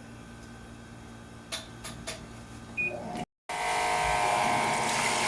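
Washing machine control panel: a few button clicks and a short electronic beep. After a brief cut, the empty machine starts running with a steady whining hum.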